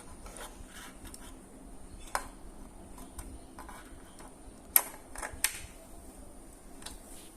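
Scattered small clicks and knocks from hand work on a chair's parts and fittings. A sharper click comes about two seconds in and the loudest about five seconds in.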